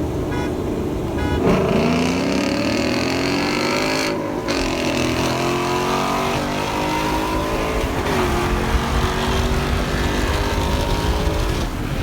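Car engine accelerating hard through the gears: its pitch climbs, drops at a shift about four seconds in, climbs again and drops at another shift about eight seconds in, then holds.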